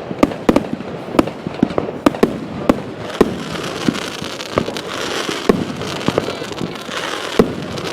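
Fireworks going off: a quick run of sharp bangs and pops, then from about three seconds in a dense crackling hiss with scattered bangs over it.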